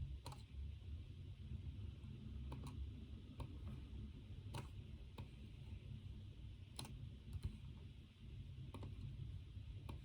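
Sparse, irregular clicks at a study desk, about one a second with uneven gaps, typical of keys or buttons being pressed now and then. A low, steady room hum runs underneath.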